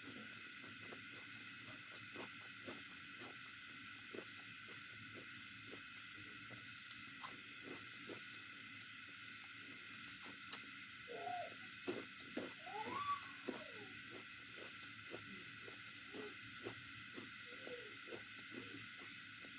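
Faint night-time animal sounds: a steady, pulsing insect-like chirp repeating about three times a second, with soft low ticks and a few short gliding calls about halfway through.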